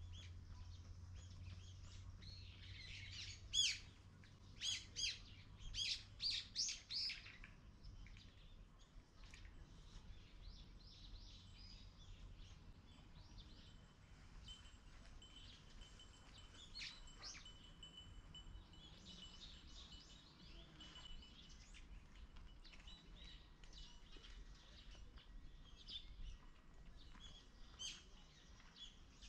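Songbirds chirping and calling, with a run of loud, repeated high calls a few seconds in, then fainter scattered chirps.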